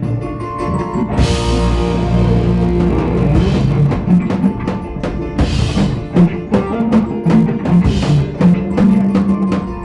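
A rock band playing live: drum kit with bass drum and cymbal crashes under distorted guitars, loud and driving.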